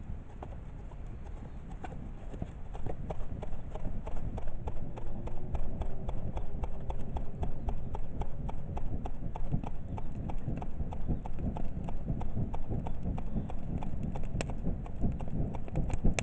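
Wood fire crackling in a garden kamado stove: a dense run of sharp pops and snaps over a low rumble, growing louder about three seconds in as the fire takes hold.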